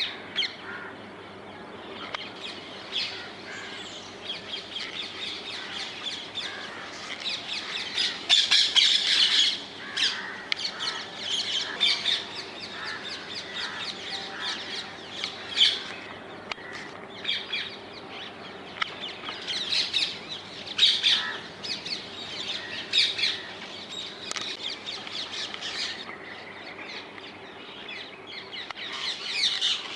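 Rose-ringed parakeets calling: repeated shrill squawks, one after another with little pause, with the loudest bursts about eight seconds in and again around twenty seconds.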